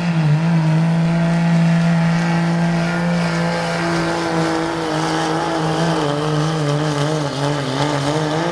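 Diesel pickup engine held at high, nearly steady revs under heavy load, its pitch wavering slightly, as a work-stock truck pulls the sled down the track.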